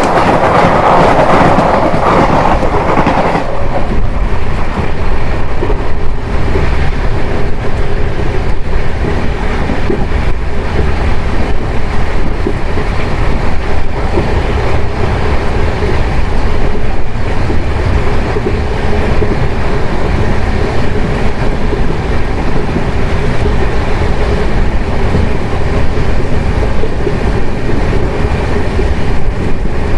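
Passenger express train running at speed, heard from on board: a steady rumble of coaches with wheels clacking over rail joints. There is a brighter rushing noise in the first few seconds and a steady hum in the second half.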